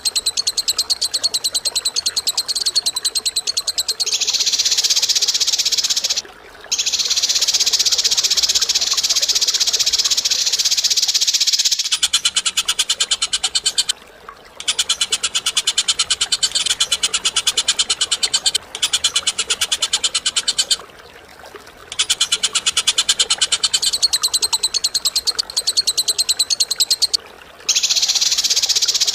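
A bird singing a loud, rapid, rattling chatter in long unbroken runs of several seconds each, separated by short pauses.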